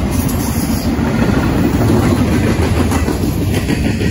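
Intermodal freight train's cars rolling past: a steady, loud rumble and clatter of steel wheels on the rails under well cars and flatcars loaded with double-stacked containers and trailers.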